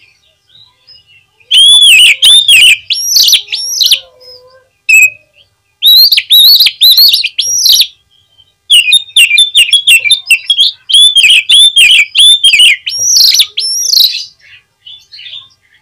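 Oriental magpie-robin (kacer) singing loud phrases of rapid, rising-and-falling whistled notes, three runs with short pauses between them and faint calls at either end.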